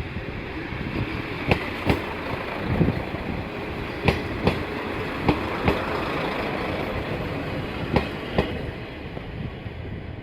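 Kashima Rinkai Railway diesel railcar running over the track with a steady rumble, its wheels clicking over rail joints in four quick pairs (clickety-clack).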